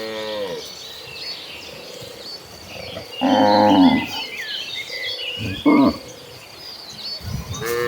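Cattle mooing: one call tails off at the start, a loud long moo comes about three seconds in, a short one near six seconds, and another begins at the very end. High chirping runs along in the background.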